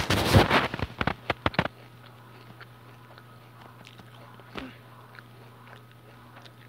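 Crunchy food bitten and chewed close to the microphone: a loud burst of crunching and sharp cracks in the first second and a half, then only faint ticks.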